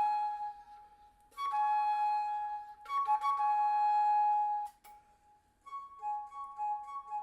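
Music played back through 16 cm two-way component car speakers, serving as an upper-midrange test passage. It is a solo melody of long held notes broken by short silences, turning into a quicker pulsing phrase near the end.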